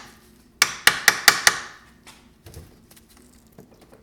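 Hammer striking metal in a quick run of about five sharp, ringing blows, then a few faint knocks: hammering on a stubborn part while stripping an engine, until it comes loose.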